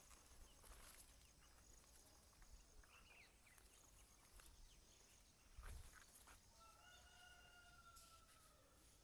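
A rooster crowing faintly in the distance: one long call near the end, falling slightly in pitch as it ends, over a quiet outdoor background with a soft low thump a little earlier.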